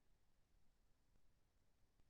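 Near silence: faint low background hum and hiss.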